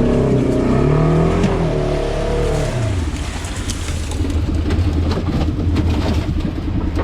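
Side-by-side UTV engine revving hard, its pitch wavering and then dropping about three seconds in, after which it runs on at a steady, lower note.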